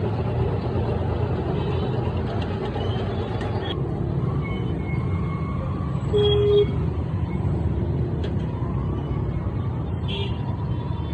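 Steady low rumble of motor vehicle engines, with a short, loud steady tone about six seconds in.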